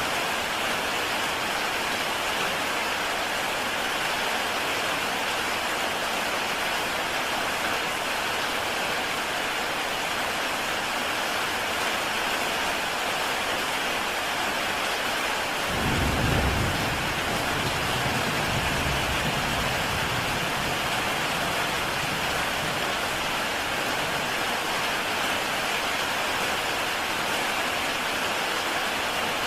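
Heavy rain falling steadily on a tile roof, a dense even hiss. About halfway through, a low rumble of thunder swells for a few seconds and fades.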